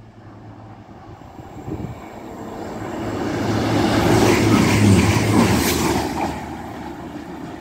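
CrossCountry Voyager diesel multiple unit passing through the station at speed without stopping. Its engine drone and wheel noise build over a few seconds, are loudest as the front of the train goes by about four to five seconds in, then fade.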